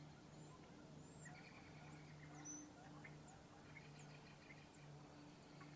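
Faint wild birds chirping, a scatter of short high chirps and calls, over a faint low hum.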